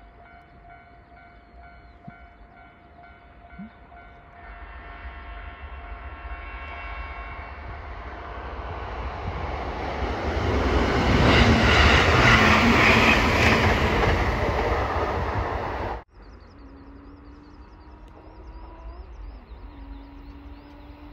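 JR Kyushu 783 series electric train approaching and passing at speed: a steady rumble that grows louder, peaks for several seconds as the train goes by, and stops abruptly at an edit. Afterwards a much quieter sound of a second 783 series train approaching in the distance.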